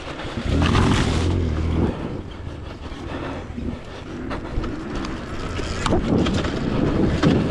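Dirt bike engine revving up and down under load, with wind noise on the microphone.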